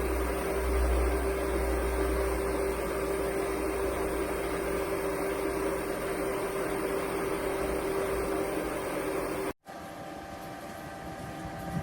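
Small USB evaporative air cooler's fan running steadily with a constant hum. About nine and a half seconds in, the sound cuts abruptly to a quieter, steady fan noise.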